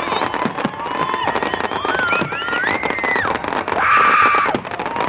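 Fireworks display: several whistling rockets gliding up and down in pitch over dense crackling, with a loud hissing burst about four seconds in.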